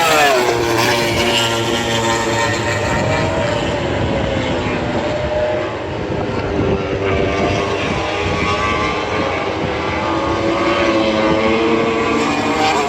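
MotoGP race bikes going past at top speed, with a sharp drop in engine pitch as one passes right at the start. The high engine notes of several bikes then carry on throughout, rising and falling as they pass.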